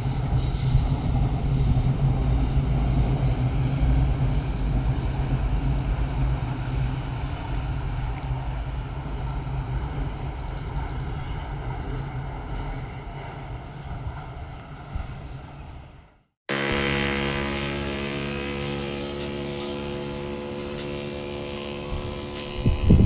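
Vehicle noise: a low steady rumble that slowly fades away over about sixteen seconds, then, after a sudden cut, a steady hum with several held tones.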